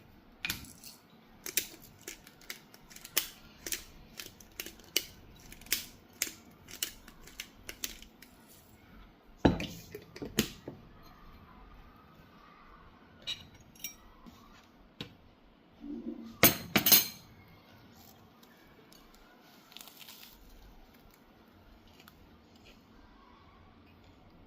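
Kitchen utensils and tableware being handled: a run of sharp light clicks and clinks about two a second, then a few heavier knocks, two of them close together about two-thirds of the way through.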